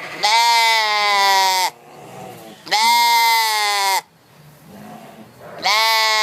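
Three long, loud bleats, each holding one pitch and sagging slightly at the end, with pauses of about a second between them; the last is cut off abruptly.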